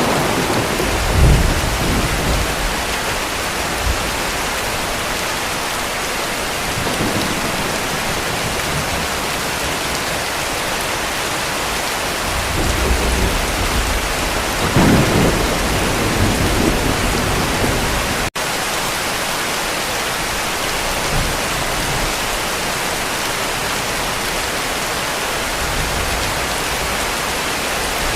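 Heavy rain falling steadily, with distant thunder rumbling low about a second in and again in a longer roll around the middle. The rain cuts out for a split second about two-thirds of the way through.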